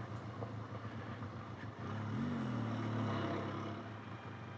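Benelli TRK 502X's parallel-twin engine running at low revs, with a brief rise and fall in revs about two seconds in.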